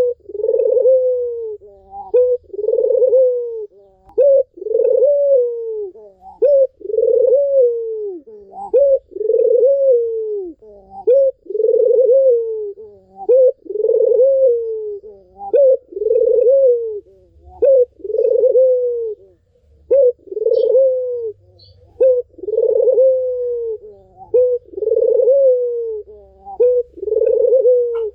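Ringneck dove (puter) cooing over and over, a short rising note then a longer rolling coo, repeated about once a second.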